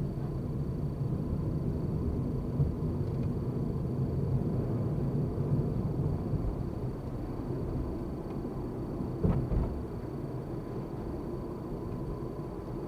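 Steady low rumble of a car driving, road and engine noise, with a brief knock about nine seconds in and a smaller one near the start.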